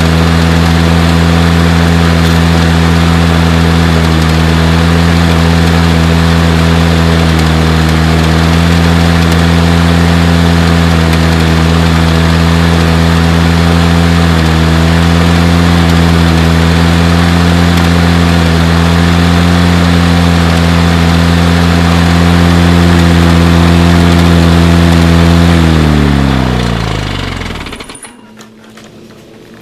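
Lawn Boy Silver Series mower's two-stroke engine running steadily at speed, then shut off near the end: its pitch drops as it winds down and it stops.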